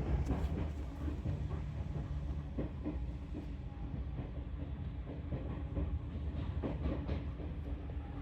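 Electric commuter train running, heard from inside the car: steady rumble with wheels clicking over rail joints. The higher hiss fades about three and a half seconds in as the train slows for a station stop.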